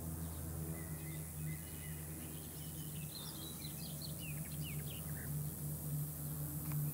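Small birds chirping, with a cluster of short high calls in the middle, over a steady low hum.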